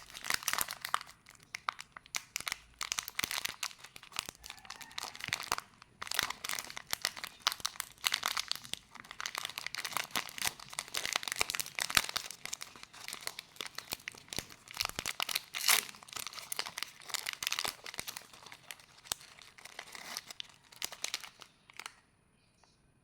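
Wrapper of a pack of Unibic milk cookies crinkling and tearing as it is handled and opened, a dense run of irregular crackles that stops about a second before the end.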